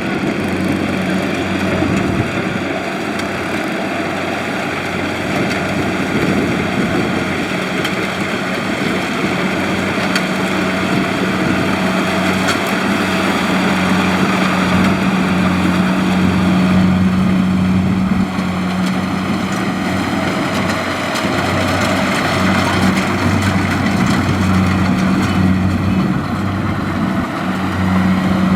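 Kubota DC-70 rice combine harvester running steadily at working speed: a constant diesel engine drone with a broad mechanical rush from the machine over it.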